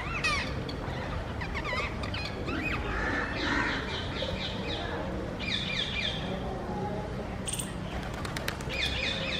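Rose-ringed parakeets calling in quick series of repeated squawking notes, coming in two bouts, one about three seconds in and one near the middle, over a steady low background hum.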